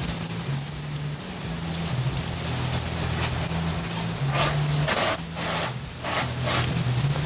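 Heavy rain pouring down in a steady hiss, with several louder surges from about four seconds in. Low bass notes from a background music track sit underneath.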